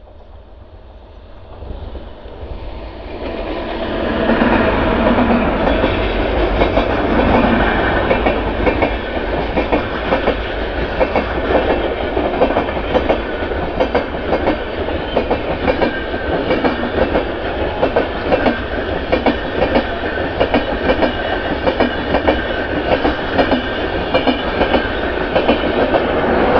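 Passenger express hauled by a WAP-7 electric locomotive approaching and passing close by at speed. The sound builds over the first four seconds, then the coaches rush past with rapid clickety-clack of steel wheels on the rails.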